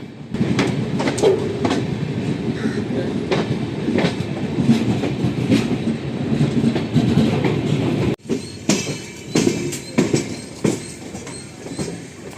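Moving passenger train, its wheels rumbling and clicking over rail joints and points. About eight seconds in the sound breaks off sharply and comes back quieter, still with scattered clicks.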